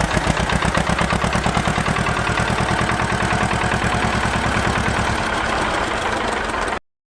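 Small engine of a miniature tractor running steadily at idle with a fast, even chugging pulse; it cuts off abruptly near the end.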